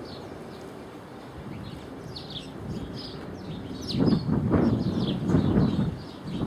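Small birds chirping, many short high calls one after another. From about four seconds in, a louder rough low rumble comes up under the chirps.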